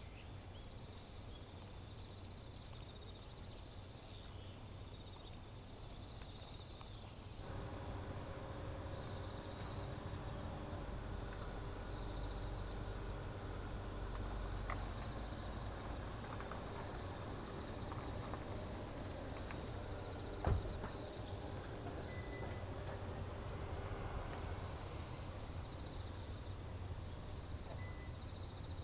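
Steady chorus of autumn insects, crickets trilling at a high pitch, over outdoor background noise that steps up abruptly about a quarter of the way in. A single sharp knock sounds about two-thirds of the way through.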